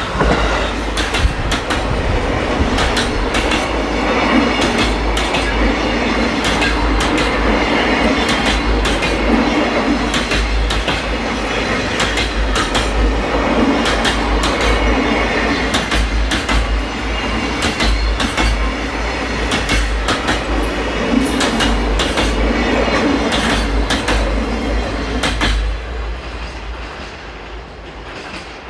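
Freight train passing close by, its wagon wheels clattering over the rail joints in a long run of sharp clicks, then fading away near the end.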